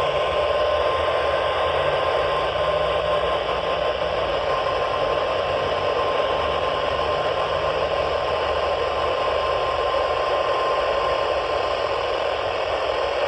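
NOAA Weather Radio 1050 Hz warning alarm tone, a steady single tone heard through heavy static hiss from a weak radio signal, fading out near the end.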